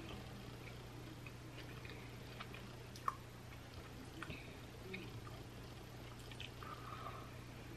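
A person quietly chewing food close to the microphone, with faint wet mouth clicks and smacks scattered through, the sharpest about three seconds in, over a steady low hum.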